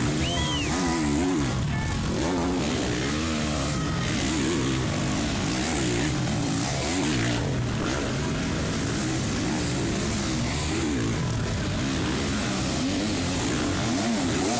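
Several motocross bike engines revving hard and easing off over and over as they race, their pitches overlapping and rising and falling continuously.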